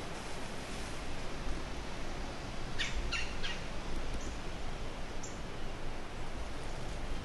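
Birds calling in woodland: a quick cluster of three short, sharp calls about three seconds in, then a couple of faint, high chirps, over a steady outdoor hiss and a low rumble.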